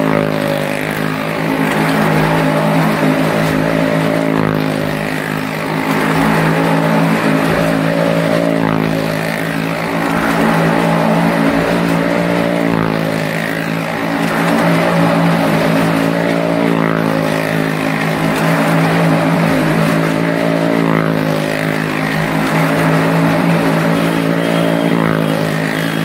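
Maruti car and motorcycle engines running at steady high revs as they circle the wooden wall of a well-of-death drum, the sound swelling and fading every few seconds as they pass.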